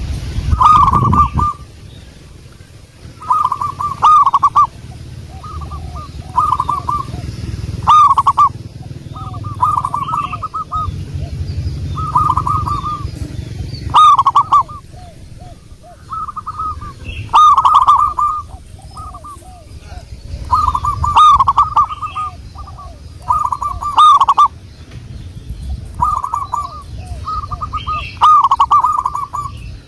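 Zebra doves (perkutut) cooing: phrases of quick stuttering notes repeat every couple of seconds, with fainter, lower coos between them.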